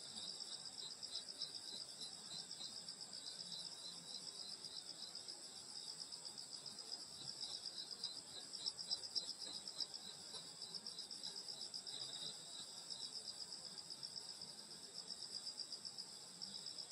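Summer night chorus of grass insects: several steady, overlapping high-pitched trills, one of them pulsing rapidly.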